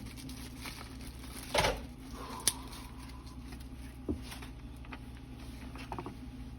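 Small handling noises of parts being worked free inside a disassembled angle grinder housing as the old switch rod is pulled out: a louder knock about one and a half seconds in, a sharp click a second later with a brief ring, then a few lighter taps and clicks.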